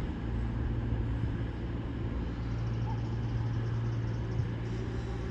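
Class 220 Voyager diesel multiple unit's underfloor diesel engines running at a steady idle, a constant low hum with no change in pitch.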